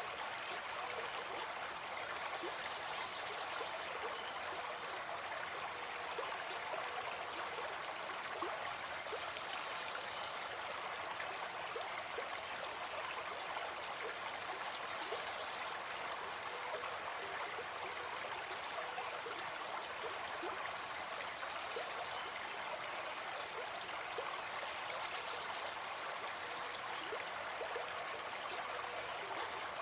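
Gentle forest stream flowing, a steady babble of running water that does not change.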